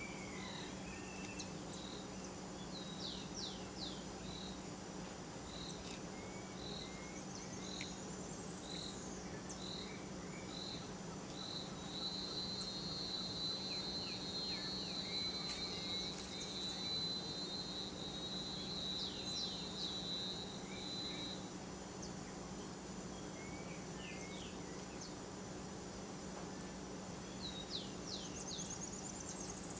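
Forest ambience: a high-pitched insect call in evenly spaced pulses, about one a second, which turns into a continuous trill for around nine seconds before stopping. Small bird chirps and quick sweeping notes come and go, over a steady low hum.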